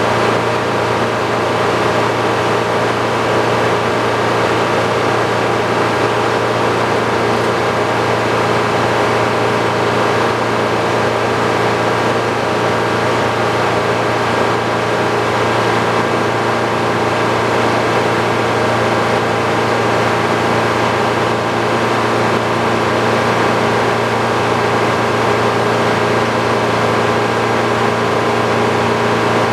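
The engine powering an old Frick sawmill, running at a steady, even speed with no change in pitch or load.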